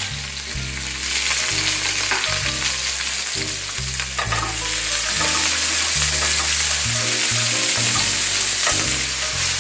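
Sliced bell peppers and mushrooms sizzling in hot oil in a frying pan as they are stir-fried. The sizzle swells about a second in and grows louder again about halfway through.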